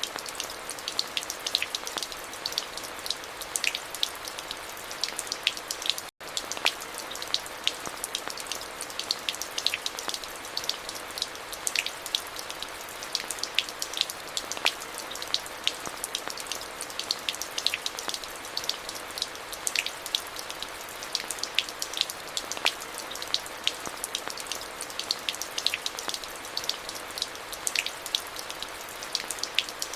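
Steady rain falling, with dense individual drops pattering on a hard surface over a constant hiss. The sound cuts out for an instant about six seconds in, then carries on unchanged.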